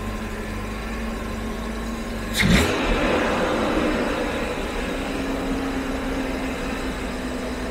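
Jaguar XK straight-six engine idling on twin Stromberg carburettors, running a little rich. A sharp clatter comes about two and a half seconds in, and the idle speed rises slightly about halfway through.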